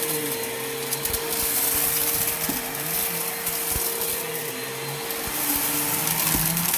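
Bissell PowerForce Helix Turbo bagless upright vacuum cleaner running while vacuuming, a steady motor whine over airflow hiss, swelling and easing every couple of seconds, with a few short clicks.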